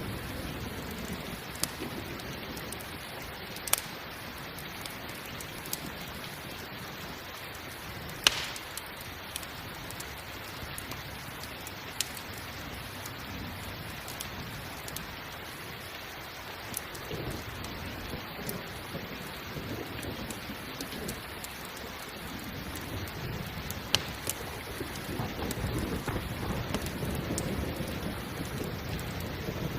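Steady rain with a crackling campfire: sharp single pops every few seconds, loudest about 8 and 24 seconds in. Low thunder rumbles in twice, the second time building toward the end.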